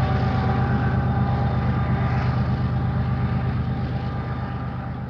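Diesel freight train running: a steady low engine drone with a few steady higher tones, slowly fading as the locomotive and its cars move away.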